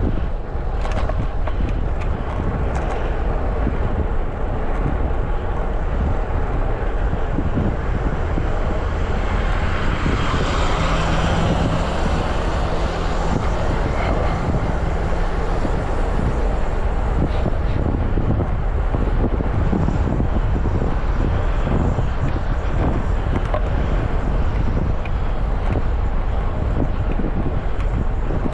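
Wind rumbling on a bike-mounted action camera's microphone while cycling through city traffic. Around the middle, a vehicle passes with a steady low engine hum and a rising, then fading, hiss.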